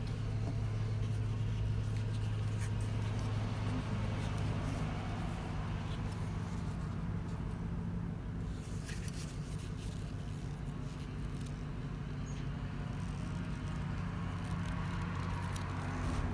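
Car engine idling steadily, with faint irregular clicks on top.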